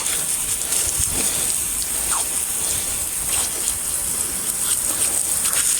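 Garden hose spraying water onto the wooden doorstop and the ground, a steady splashing hiss with scattered drips, rinsing off water-soluble paint stripper.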